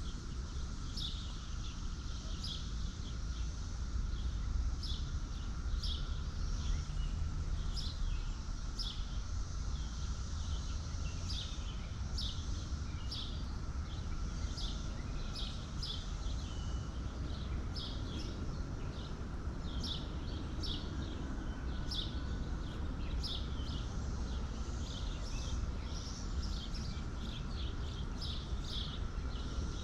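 A small bird chirping over and over, short high chirps about once or twice a second, over a steady outdoor background with a low rumble.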